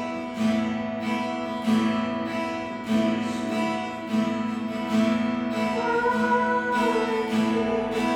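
Acoustic guitar strumming chords in a steady, unhurried rhythm as worship music, with a voice singing softly over it about six seconds in.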